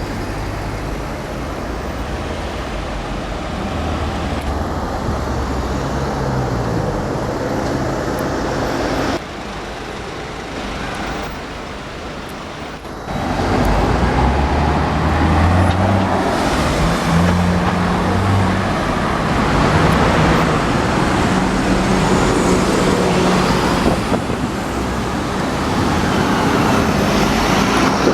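Street traffic with car engines running and passing, their pitch shifting as they rev. The sound drops suddenly about nine seconds in and comes back louder about thirteen seconds in.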